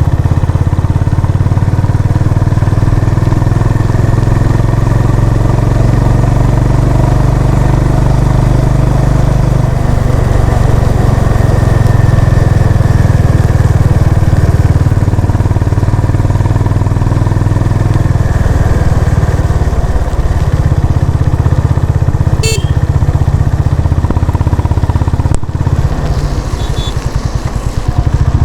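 Honda CB350 RS's single-cylinder engine running as the motorcycle is ridden, a steady exhaust note that shifts pitch a couple of times. A sharp click comes about two-thirds of the way through.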